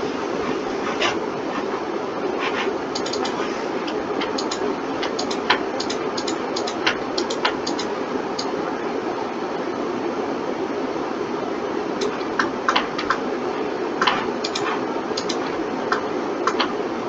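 Irregular computer mouse clicks and keyboard taps, some in quick clusters, over a steady machine hum.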